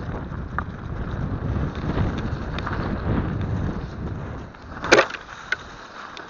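Mountain bike riding noise on a snowy trail: a rough rumble of wind on the action-camera microphone, then a single sharp knock about five seconds in and a small click just after. After the knock the rumble drops away.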